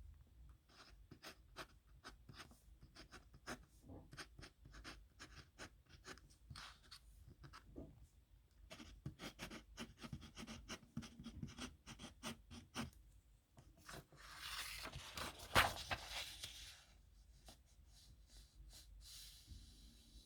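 A pen scratching across paper in quick short strokes as a signature is written by hand. Around fourteen seconds in comes a louder, longer scraping stretch with one sharp click in it, and a fainter scrape near the end.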